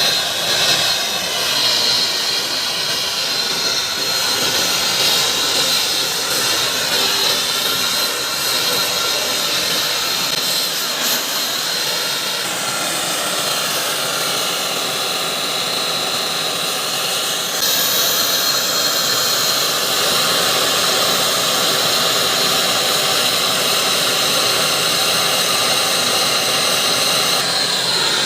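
MAP gas torch flame running with a steady hiss and a thin high whistle while brazing copper pipe. The tone shifts about halfway through and the hiss grows slightly louder near the two-thirds mark.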